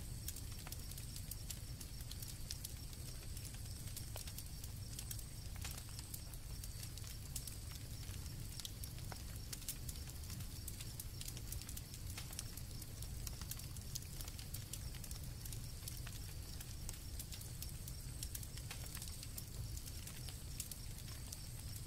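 Campfire crackling with many irregular sharp pops over a low steady rumble, with crickets chirping in a steady high trill behind it.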